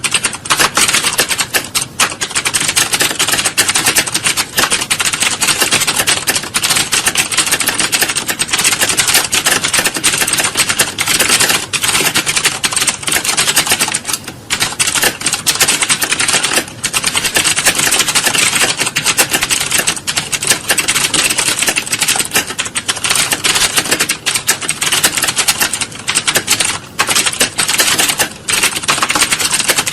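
Many computer keyboards being typed on at once, a dense, continuous clatter of overlapping keystrokes with no pauses.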